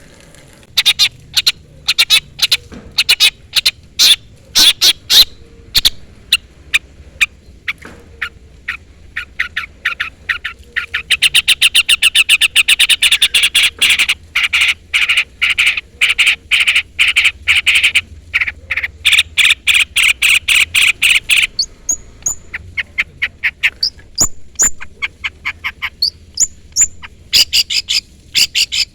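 Long-tailed shrike (cendet) calling in rapid, sharp chirps, with a fast unbroken chatter through the middle and thin rising whistles near the end. These are challenge calls of the kind that summon a rival shrike.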